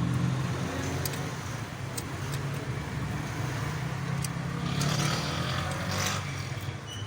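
Hyundai Santro's engine running steadily, with a low hum throughout. The car is misfiring and lacks pickup, a fault the mechanic puts down to a failing fuel pump.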